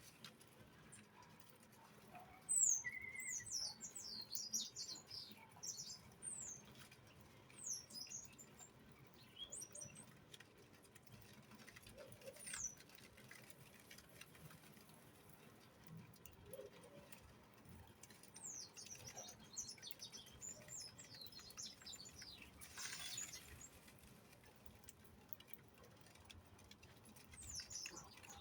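Small birds chirping: quick, very high twittering calls that come in clusters a few seconds apart, with a brief rustling rush about two-thirds of the way through.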